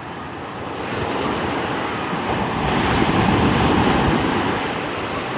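Ocean surf: a steady wash of waves, with one wave building louder about three seconds in and then easing off.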